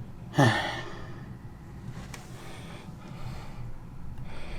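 A man sighs once, a short voiced exhale that falls in pitch about half a second in, followed by quieter breaths, over a steady low background hum.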